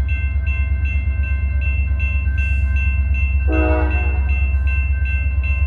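CSX freight train's diesel locomotive rumbling low and steady as it approaches, with a bell ringing evenly at about three strokes a second. A short horn toot sounds about three and a half seconds in.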